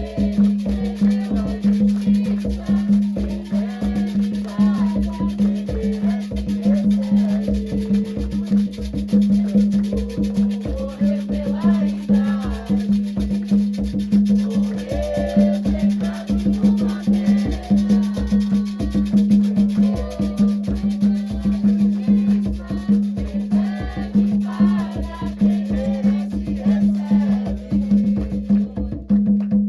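Afro-Brazilian religious music: fast, steady hand-drum percussion with shakers and clicking percussion, and voices singing over it.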